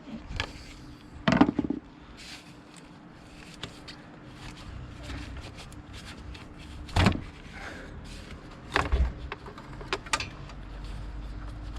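Knocks and clatter of hand tools and loose engine parts being handled while the turbo hose is worked off a diesel engine, with a few sharp knocks about a second and a half, seven and nine seconds in.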